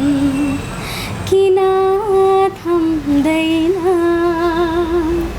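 A woman singing a modern Nepali (aadhunik) song, holding long notes with light vibrato, with a short break between phrases about a second in.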